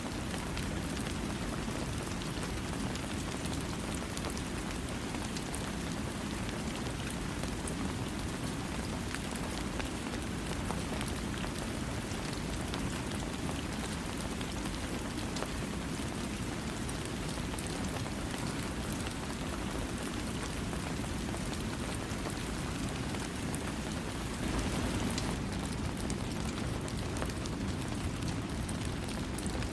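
Steady rain falling on a surface, a dense patter of drops over a continuous low rush, without thunder. It swells briefly late on.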